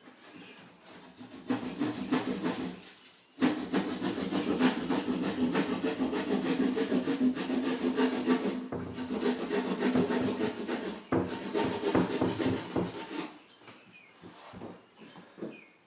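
A saw cutting into a wall, a rough, rasping sound that runs almost without a break for about ten seconds with a couple of short pauses, then stops. The wall is being opened to free a bird trapped inside it.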